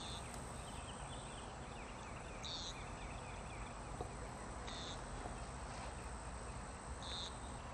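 Outdoor yard ambience: a steady background hiss with a short, high chirp that repeats four times, about every two and a half seconds.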